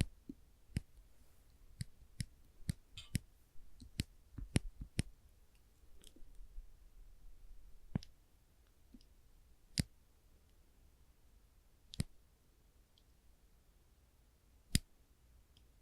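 Small orange-tipped spring clamps being pressed and released, snapping with sharp clicks. The clicks come quickly and irregularly for the first few seconds, then singly every two or three seconds.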